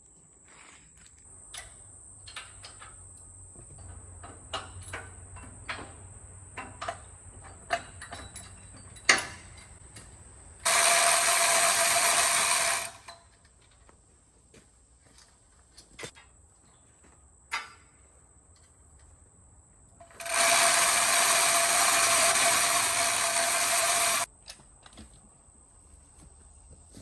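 A ratchet mechanism working as a log is hauled onto a portable sawmill: scattered sharp clicks for the first ten seconds, then two loud, steady ratcheting runs, one of about two seconds and a longer one of about four seconds.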